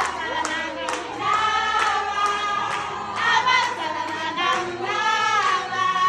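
A group of voices singing together with rhythmic hand claps.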